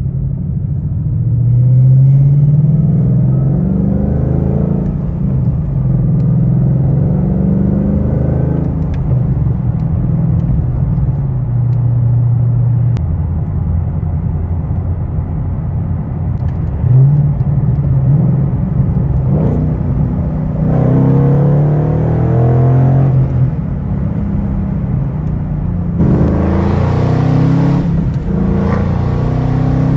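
2013 Mustang GT's V8 through a resonator-deleted exhaust (factory headers, cats and H-pipe, aftermarket axle-backs), running loud and revving up several times, the pitch climbing and then dropping back each time. The exhaust has a known leak.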